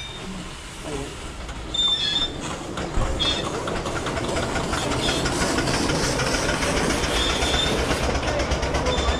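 Miniature railway train running along its track, growing louder from about two seconds in, with a rapid clatter of wheels on the rails and short high squeals from the wheels.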